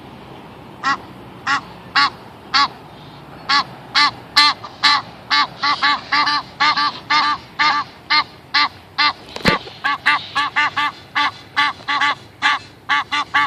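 Waterfowl calling over and over in short honking calls. They start about a second in, roughly two a second, then come faster and overlap from about halfway, with one sharp thump about two-thirds of the way through.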